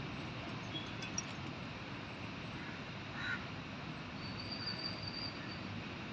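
Steady outdoor background hiss with faint bird calls, including a thin high whistle about four seconds in that lasts about a second.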